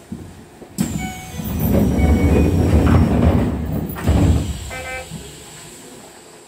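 Keisei electric train running on the rails: a loud rush of rail and wheel noise starts suddenly about a second in and fades after about four seconds, with a high whine gliding down in pitch.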